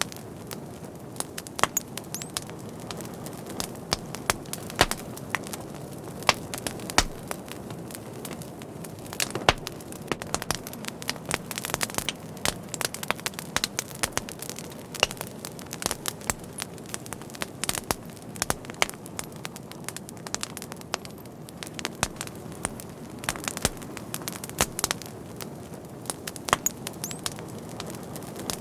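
Wood fire burning, with many irregular sharp crackles and pops over a steady low hiss.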